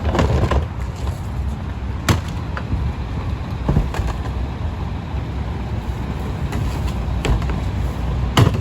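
WM split-body garbage truck's engine running steadily, with a half-dozen sharp bangs and clanks scattered through it. The loudest bang comes near the end.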